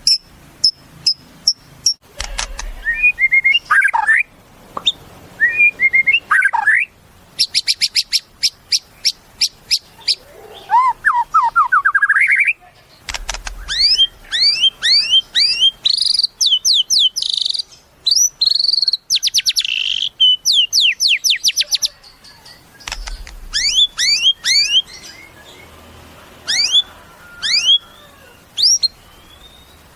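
White-rumped shama (murai batu) singing a long, varied song. Clear whistled phrases alternate with fast dry rattling series, a rising trill, and runs of quick sweeping notes, with short pauses between phrases.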